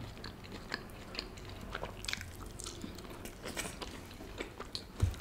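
Close-miked chewing of food, with a scatter of small wet clicks and soft crackles from the mouth.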